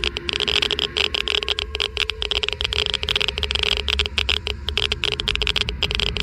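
Geiger counter clicking fast and at irregular intervals, many clicks a second, over a steady hum and a low rumble.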